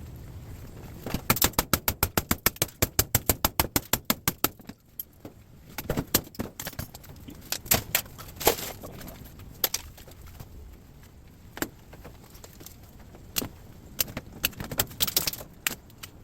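Metal clicking and clanking while scrap is handled: a fast, even run of sharp clicks, about eight a second, for roughly three seconds, then scattered single clanks and knocks.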